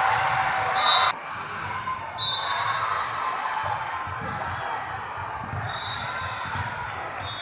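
Volleyballs bouncing on a hardwood gym floor, a run of low thuds, with short high shoe squeaks and a wash of voices that cuts off suddenly about a second in.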